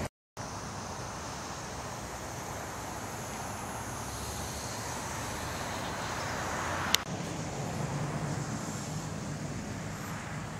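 Freight train boxcars rolling past close by: a steady rumbling rush of steel wheels on the rails. The sound cuts out briefly just after the start, and there is one sharp click about seven seconds in.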